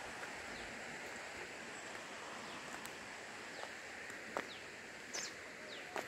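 Forest birds calling: short, falling chirps about once a second over a steady outdoor hiss, with a few light clicks.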